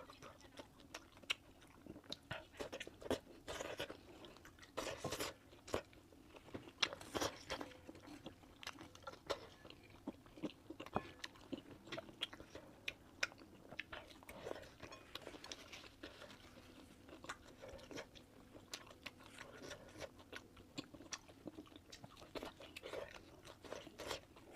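A person chewing and biting food close to the microphone, many irregular short clicks and crunchy bites.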